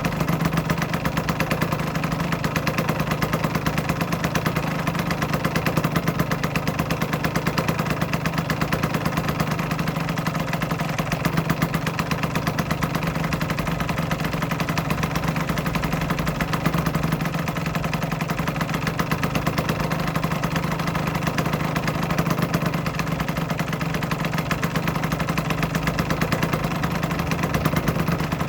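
Aprilia RS125's single-cylinder two-stroke engine idling steadily, holding an even speed without revs.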